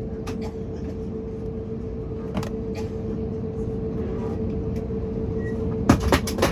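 Airbus A321neo cabin noise with the CFM LEAP-1A engines at idle before takeoff: a steady low rumble with a held mid-pitched tone. A few faint clicks are scattered through it, and there is a quick cluster of knocks about six seconds in.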